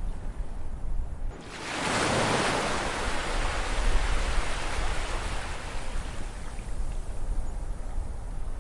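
Ocean wave breaking about a second and a half in, its wash fading away over several seconds, over a steady low rumble of surf.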